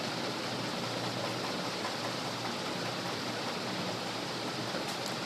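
Chopped onions sizzling steadily as they sauté in hot coconut oil, with a faint click near the end.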